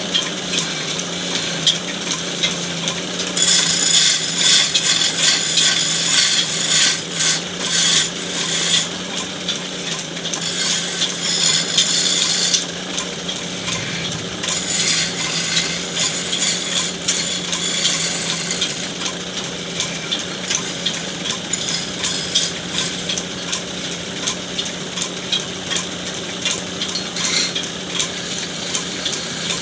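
Electric woodworking machine running with a steady hum while a tool scrapes and cuts into wood, shaping a charpai leg. The cutting is harsher and louder from about three to twelve seconds in.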